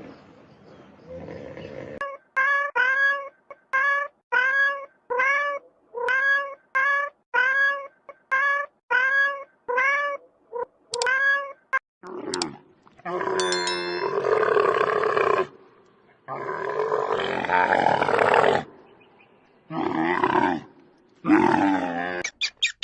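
Animal calls: a long run of short, pitched calls repeated about twice a second, each rising then falling, followed by several longer, harsher drawn-out calls with pauses between them.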